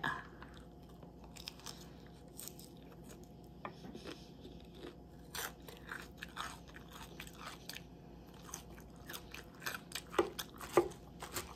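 Close-up chewing of a mouthful of crunchy lettuce salad: irregular soft crunches, with a few louder crunches near the end.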